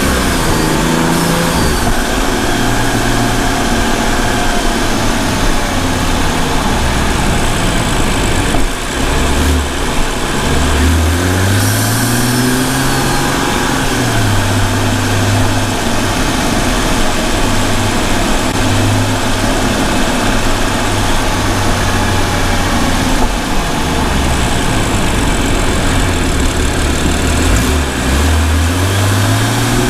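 BMW M235i's turbocharged straight-six exhaust, picked up by an external microphone while driving. The engine note rises and falls as the car speeds up, eases off and changes gear, over a steady rushing noise.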